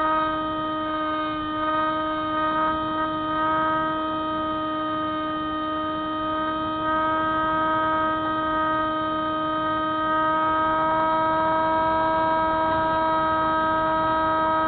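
Electric motor and propeller of a Spyhawk radio-controlled FPV plane, whining at a steady high pitch under constant throttle.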